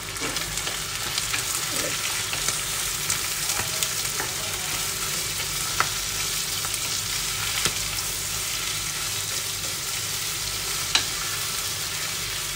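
Shredded chicken and chopped tomatoes sizzling in hot oil in a nonstick frying pan while a wooden spatula stirs them, with three sharp taps of the spatula on the pan.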